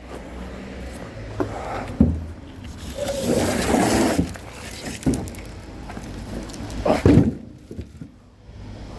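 Oak firewood logs being handled: several hard wooden knocks as logs are set down or stacked, with scraping and rustling between them.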